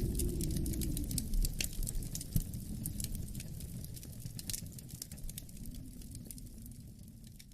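Wood fire crackling with rapid, irregular snaps and pops over a low howl of wind outside, the whole mix fading out gradually through the second half.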